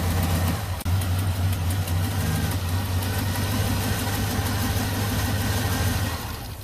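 2005 Chevy Trailblazer engine running rough with a misfire, then dying out near the end as the engine stalls.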